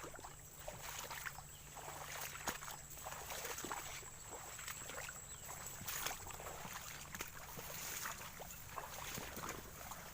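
A person wading through water on foot: irregular splashing and sloshing as the legs push through the water step by step.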